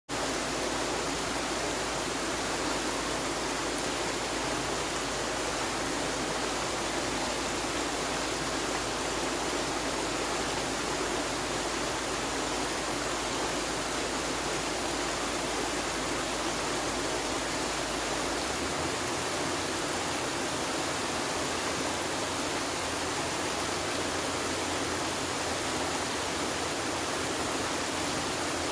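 Flowing river water: a steady, even rush with no distinct splashes. The deep rumble underneath shifts slightly about two-thirds of the way through.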